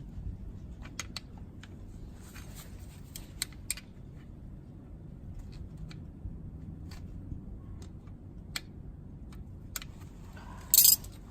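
Scattered light metallic clicks and taps of hand tools and small engine parts being handled during motorcycle engine disassembly, with one loud short clatter near the end.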